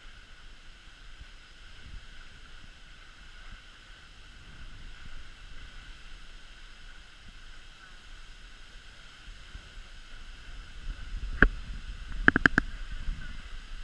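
Steady hum and water noise aboard a cruise boat under way. A sharp click comes about eleven seconds in, followed a second later by a quick run of four clicks.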